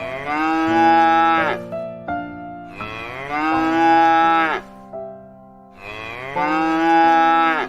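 Cow mooing three times, each moo about a second and a half long and dropping in pitch at its end, over soft background music.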